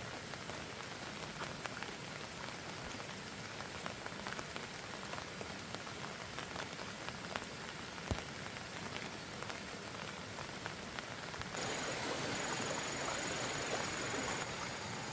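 Steady rain with many scattered drops striking, one sharper drip about eight seconds in; the rain gets louder about two-thirds of the way through.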